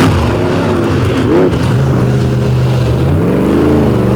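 Monster truck engines running hard during a side-by-side race. The pitch repeatedly climbs and drops as the drivers work the throttle.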